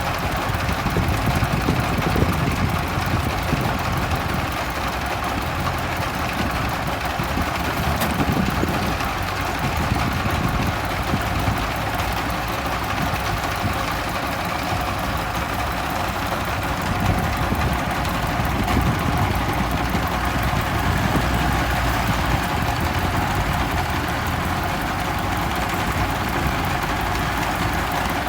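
M5018 tractor's diesel engine running steadily while plowing soil.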